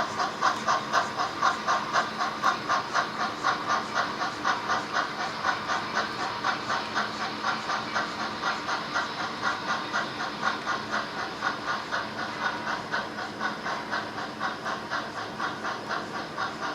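HO-scale model steam locomotive's sound system playing a steady exhaust chuff, about three beats a second, slowly fading.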